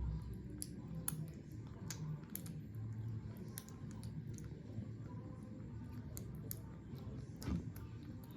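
Kittens eating wet food: soft, irregular wet clicking and smacking from their chewing and lapping.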